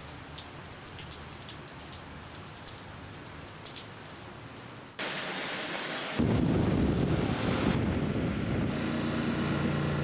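Steady rain with scattered drop hits. About five seconds in, the sound cuts abruptly to a louder noise with much more low end, which jumps louder again a second later.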